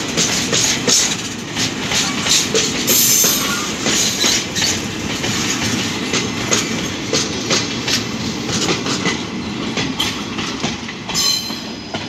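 Freight train wagons rolling past, their wheels clattering in a steady run of clicks over the rail joints. Brief high wheel squeals come about three seconds in and again near the end.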